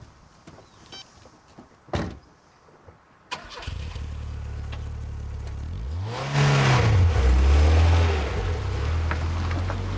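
A single thump, then a car engine starts and runs. It revs up and back down about two-thirds of the way through, then settles into a steady run.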